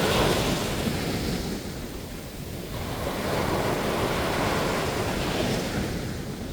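Sea waves breaking on a sandy beach, the surf swelling and falling back in two surges, with some wind on the microphone.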